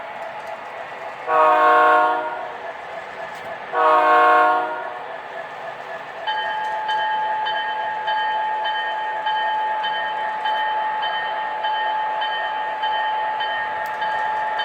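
Sound-equipped O scale model locomotive sounding two long horn blasts, then ringing its bell steadily, over the hum of model trains running on the layout.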